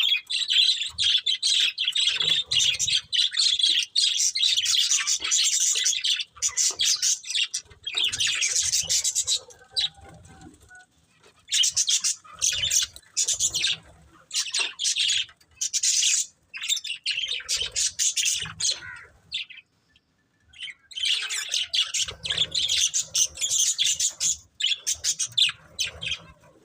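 Budgerigars chirping and chattering in rapid runs of high calls, with short lulls about ten and twenty seconds in.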